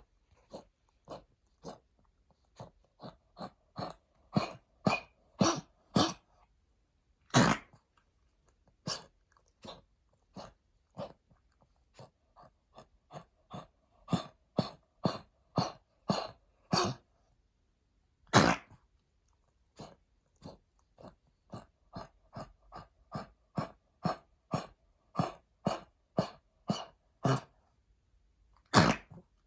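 Senior Pekingese dog coughing in repeated fits: short coughs about two a second in long runs, with three louder coughs standing out. The cough comes from heartworm disease damaging the dog's lungs.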